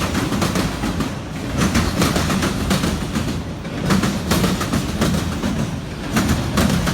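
Freight train cars rolling past, their wheels clicking over rail joints over a steady low rumble.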